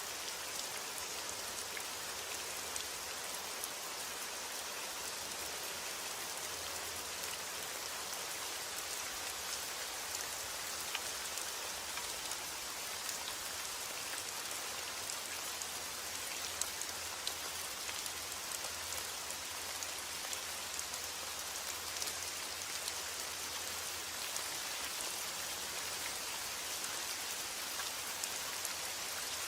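Steady rain falling on a surface, an even hiss with many separate drops pattering through it.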